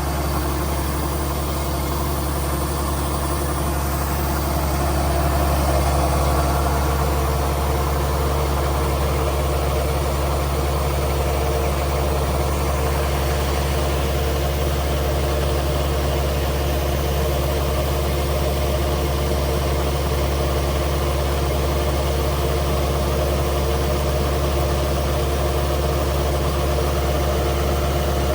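Kubota DC70G Plus combine harvester's diesel engine running steadily, swelling slightly for a few seconds about five seconds in.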